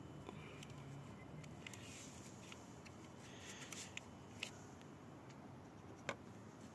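Faint handling noises as white ceramic paste is smeared onto engine mount studs: soft rubs and scrapes with a few sharp clicks, the loudest click about six seconds in.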